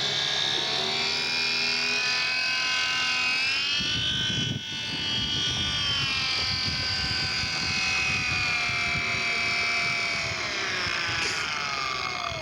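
Radio-controlled model airplane's motor running with a steady pitched drone; the pitch rises about four seconds in, holds, then slides down near the end.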